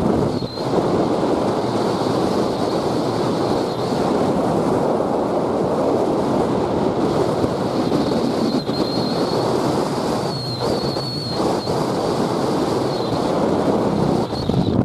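Train running at speed, a steady rushing rumble with wind on the microphone, and a faint high squeal coming and going in the middle. It cuts off suddenly at the end.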